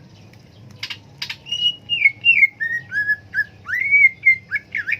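Caged green leafbird (cucak ijo) singing a fast run of clear whistled notes, many sliding down in pitch, with some quick upward sweeps near the end. Two sharp clicks come about a second in, before the song starts.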